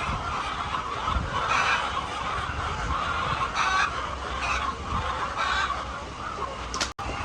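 A large flock of chickens clucking, many birds calling over one another in a dense, continuous din. The sound cuts out for an instant near the end.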